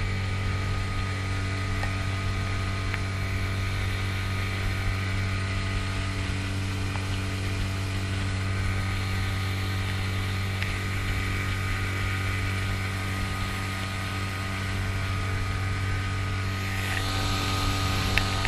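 Mercury 9.9 hp outboard motor on a jon boat running at a steady speed, an even, constant hum. A rushing hiss grows louder near the end.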